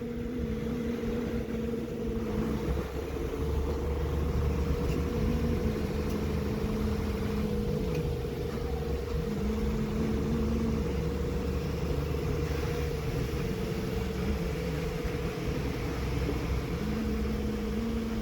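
A motor vehicle's engine running steadily with a low drone; its lower note steps up and down several times.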